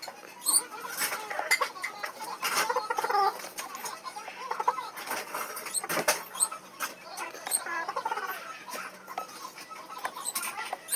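Irregular squeaky rubbing and scraping, broken by scattered small clicks and taps.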